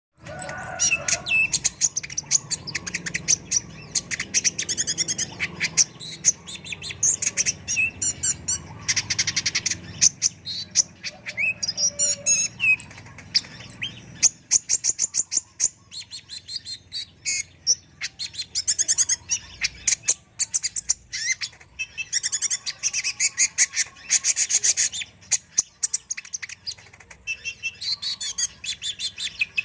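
Kolibri ninja (a sunbird) singing without pause: fast high-pitched trills and chirping notes strung into quick runs with short breaks between them.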